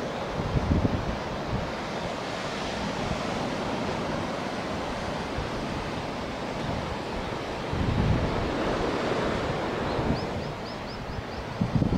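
Ocean surf breaking steadily on a beach, with wind buffeting the microphone in low gusts; the uploader wonders whether the surf is swell from Typhoon No. 2. A short run of quick high chirps sounds near the end.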